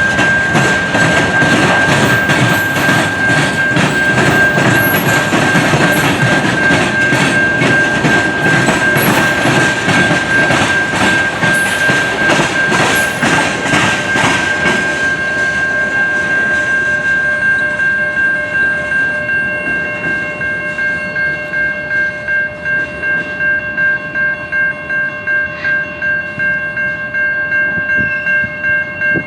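Railroad cars rolling past with wheels clacking over the rail joints, loud for about fifteen seconds and then thinning out as the train clears. Under it a grade-crossing bell rings steadily, a little under two strikes a second, and is left standing alone once the train noise fades.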